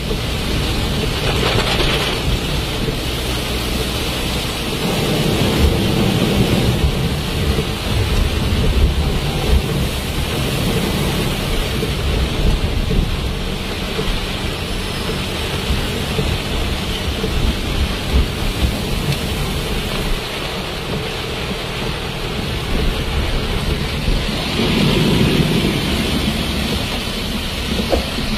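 Heavy rain on a moving car, heard from inside the cabin: a steady hiss of rain and wet road noise over a low rumble, swelling a few times.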